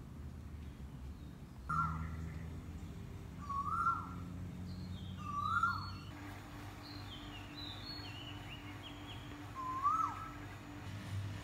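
Garden birds calling: one bird gives a short whistled call four times, each rising then dropping. In the middle another bird gives a run of quick, higher, falling chirps.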